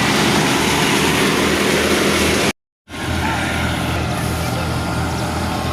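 Al-Ghazi tractor's diesel engine running steadily under load, driving a wheat thresher, with the thresher's noise over it. The sound cuts out completely for a moment about two and a half seconds in, then carries on.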